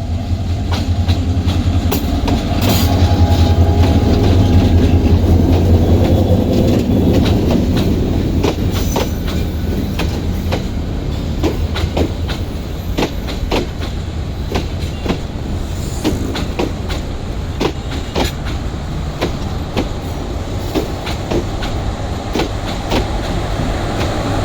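Bangladesh Railway diesel passenger train rolling into a station. Its low locomotive hum is loudest for the first several seconds, then the wheels clack over rail joints in a steady stream of clicks as the carriages pass.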